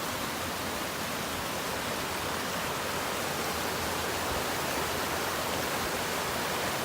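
Steady rush of water from the Todtnau waterfall.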